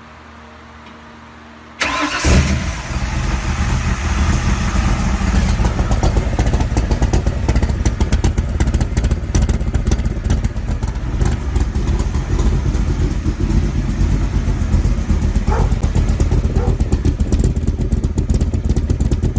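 Car engine comes in suddenly about two seconds in, then runs loud and uneven at idle with a deep rumble.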